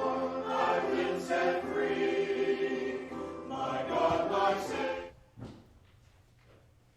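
A church choir singing, with the singing ending about five seconds in; after that only faint room sound.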